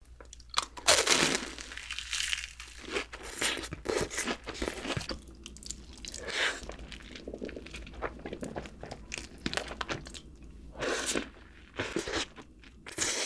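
Close-up eating sounds: a person biting into and chewing crunchy food, with irregular crackling crunches throughout.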